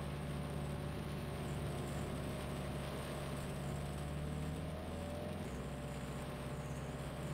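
A vehicle engine running steadily at low revs, its hum shifting slightly about five seconds in, over a steady hiss.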